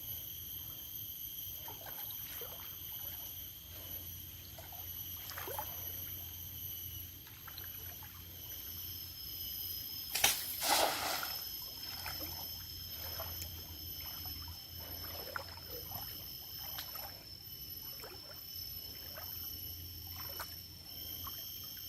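River water trickling and sloshing around a small boat, with scattered small splashes and one louder splash about ten seconds in. A steady high-pitched drone runs behind it.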